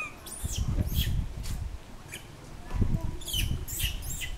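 Small birds chirping: short, quick high-pitched calls that drop in pitch, with a cluster of them about three seconds in, over a low rumble.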